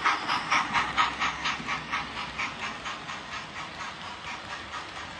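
Steam locomotive chuffing at about four beats a second over a steady hiss, the beats growing fainter as the train goes by.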